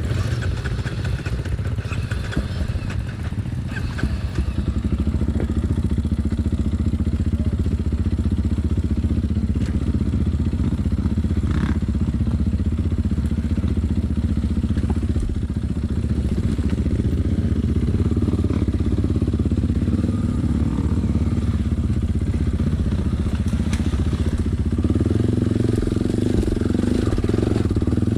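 Enduro motorcycle engine running steadily under way on a trail ride, with a few short rattles; the engine note grows fuller near the end.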